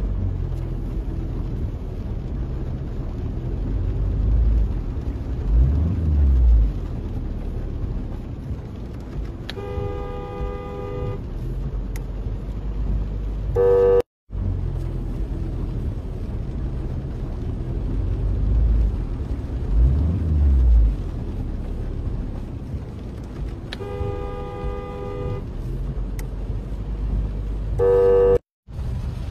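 A steady low engine rumble with horn blasts: a longer honk of about a second and a half, then a short louder one. The same stretch of sound plays twice, each time ending in a brief dropout.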